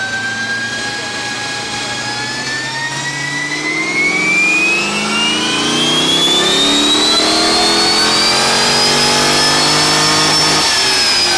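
Supercharged LS V8 of a C5 Corvette making a wide-open-throttle baseline pull on a chassis dyno. The engine note and the supercharger whine climb steadily in pitch and get louder about four seconds in. Near the end the throttle is lifted: the engine note cuts off and the whine falls away.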